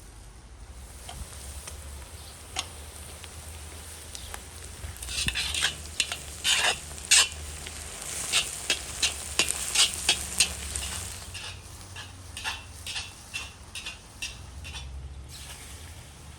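Food sizzling in a pan while a utensil stirs and scrapes it, giving a run of sharp clicks and scrapes over a steady hiss; the strokes come thickest in the middle and thin out toward the end.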